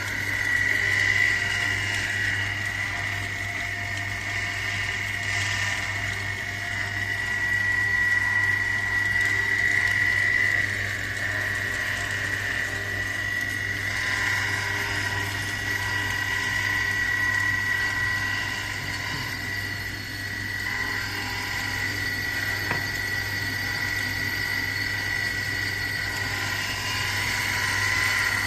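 A small motor-driven machine running steadily, with a constant high whine over a low hum.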